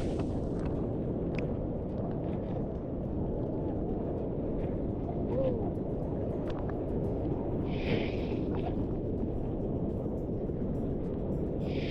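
Steady rushing roar of waterfall water, with a short higher hiss about eight seconds in.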